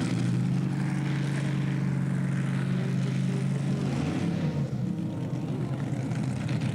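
A pulling tractor's big engine running at a steady pitch. About four seconds in, the pitch wavers and the steady note breaks up.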